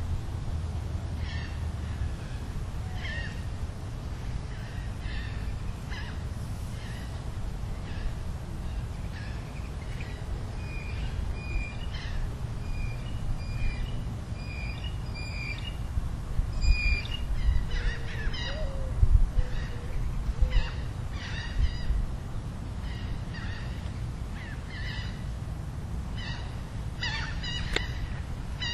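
Outdoor soundscape of wild birds giving short, repeated calls, in a quick run of about two a second for several seconds, over a steady low rumble, with a few louder low bumps in the middle.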